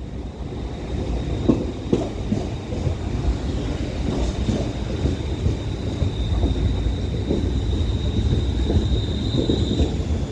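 London Northwestern Railway Class 350 electric multiple unit running slowly into a terminus platform: a steady low rumble with scattered knocks of wheels over rail joints, and a steady high squeal that stops near the end.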